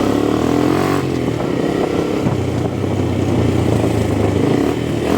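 Motorcycle engine running at a fairly steady pitch, a loud low exhaust note.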